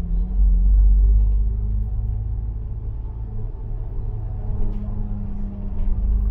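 Bus engine and road rumble heard from on board, steady and low, with a held engine note that shifts slightly in pitch and swells briefly about a second in.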